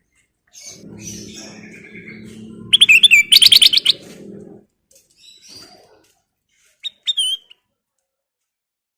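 Kutilang emas, a bulbul, calling: a fast run of loud, sharp chirping notes about three seconds in, then a short two-note call with a rising-and-dropping whistle about seven seconds in. A low steady hum runs under the first half.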